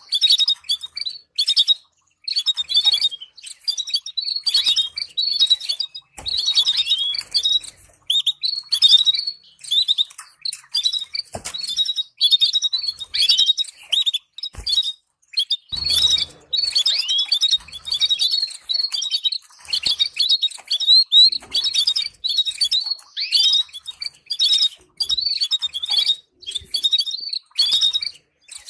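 Canary singing: a fast, continuous run of high chirps and trills in short phrases broken by brief pauses, a training song played to teach canaries to sing.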